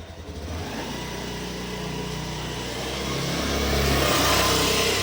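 A motor vehicle passing, its engine and road noise growing louder to a peak near the end.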